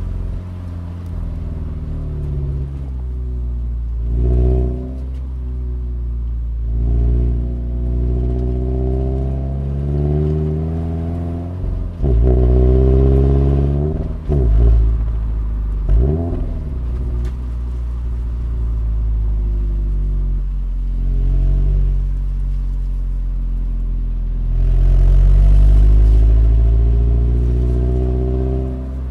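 Toyota 86's 2.0-litre flat-four engine, heard from inside the cabin as the car is driven, rising and falling in pitch as it accelerates and eases off. There are several quick, sharp rises and drops in revs near the middle.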